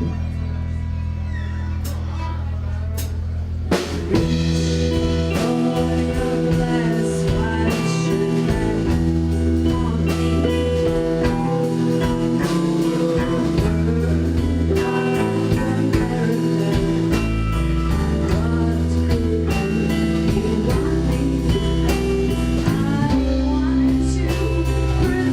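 Live band playing an instrumental passage with guitar and drums: a quieter held section, then a sharp hit about four seconds in as the full band comes in and keeps playing.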